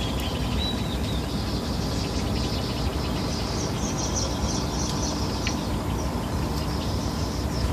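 Steady low outdoor rumble, with a bird chirping in a quick series of short high notes around the middle and a few faint clicks.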